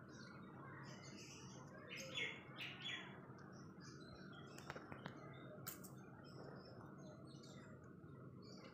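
Faint chirping of small birds, scattered throughout and loudest about two to three seconds in, with a few sharp clicks near the middle.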